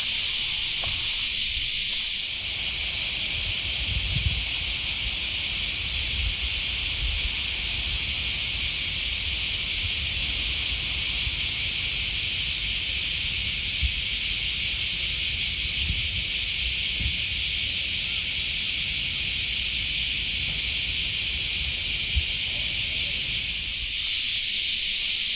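A loud, steady, high-pitched hiss, like an insect chorus, fills the outdoor air. It grows fuller and higher about two seconds in and falls back near the end, over faint low thuds.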